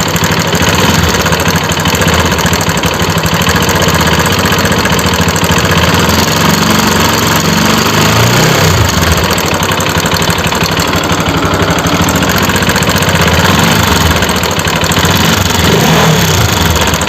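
Bajaj Pulsar RS200's single-cylinder engine idling with a loud mechanical noise that the owner calls very bad, a fault he has yet to trace by stripping the engine. The engine note rises and falls slightly twice.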